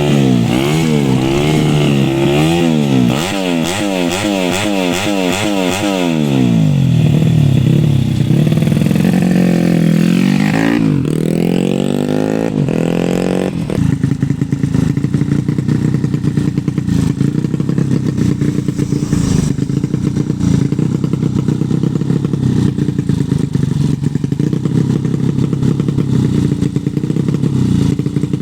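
A 115 cc underbone racing motorcycle engine revved in quick repeated blips, its pitch swinging up and down about twice a second, then dropping off and sweeping up again. About halfway through it settles into a steady run.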